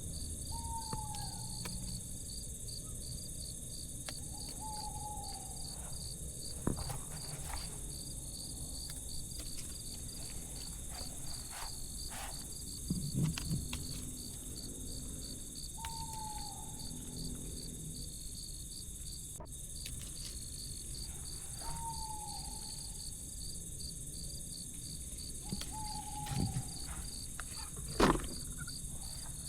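Crickets chirring steadily in a high, pulsing trill, with a bird's short falling call repeated about five times and a few soft knocks, the loudest near the end.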